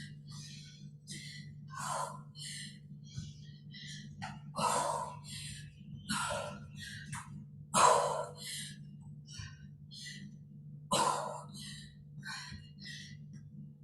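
A woman breathing hard with quick, sharp exhales and gasps while exercising, a few of them louder, over a steady low hum.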